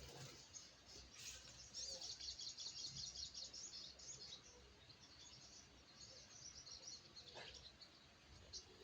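A sogok ontong bird calling in fast, high, faint chirps, a dense run about two seconds in, then sparser chirps that die out near the end.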